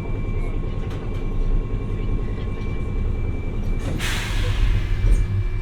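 Hiroden 700 series tram running on the track, heard from on board as a steady low rumble. About four seconds in comes a sudden burst of air hissing that fades over a second or so.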